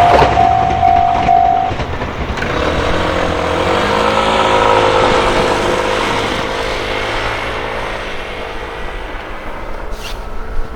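Train running over a Japanese railway level crossing. The crossing alarm's steady tone cuts off about one and a half seconds in, and the train's rumbling running noise with a wavering engine note carries on, slowly fading toward the end.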